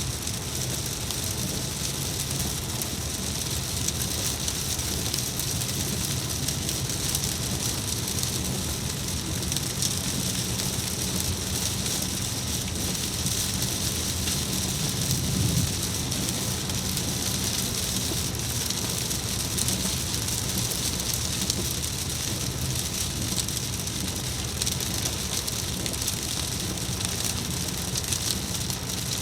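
Steady rain falling, a dense even hiss of drops, with a steady low rumble underneath.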